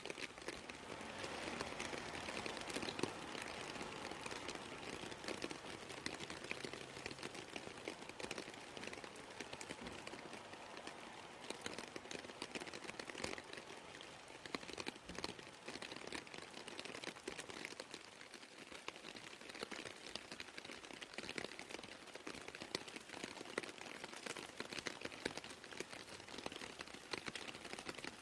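Rain falling steadily: a soft hiss thick with many small drop ticks.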